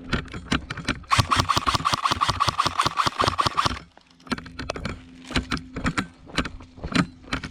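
A small engine running, with a louder, harsher stretch of about three seconds starting about a second in. Many sharp clicks run through it.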